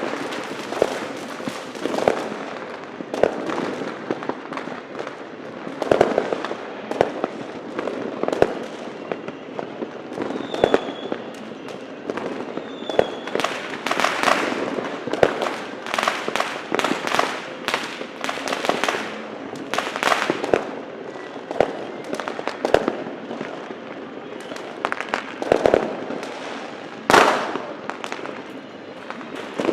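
Fireworks and firecrackers going off: many sharp bangs at irregular intervals over a steady crackle, with the loudest bang near the end.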